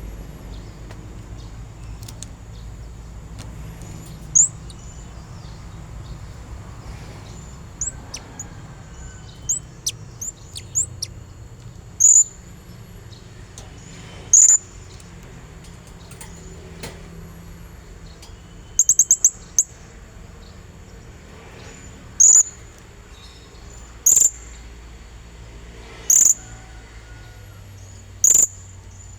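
Blue-crowned hanging parrot (serindit) calling with short, sharp, very high-pitched notes. The notes are scattered at first, come as a quick run about two-thirds through, then repeat about every two seconds near the end.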